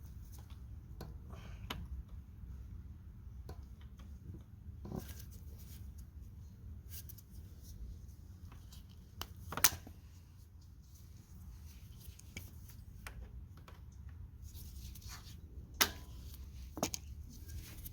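Scattered small clicks and taps of hand tools working at a motorcycle's front brake line, with two sharper clicks about ten and sixteen seconds in, over a low steady hum.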